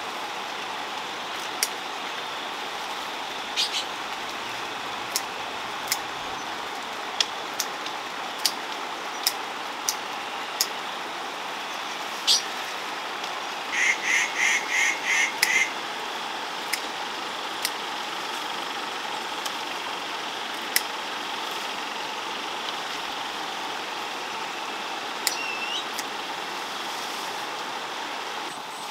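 A steady outdoor hiss with scattered sharp clicks. About halfway through, a bird calls rapidly about seven times, and a short rising chirp follows near the end.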